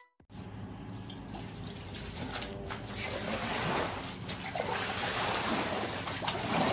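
Water trickling and splashing as rainwater backed up by a clogged drain is bailed out with a scoop.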